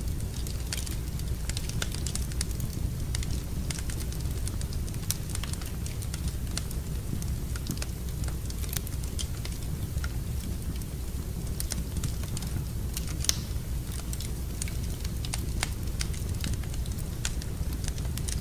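Wood fire crackling in a fireplace: irregular sharp pops and snaps over a steady low rumble, with one louder snap about 13 seconds in.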